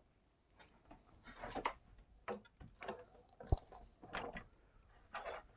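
Scattered clicks, scrapes and light knocks of an LED TV's plastic back cover and tools being handled as the set is opened, with one sharp knock about three and a half seconds in.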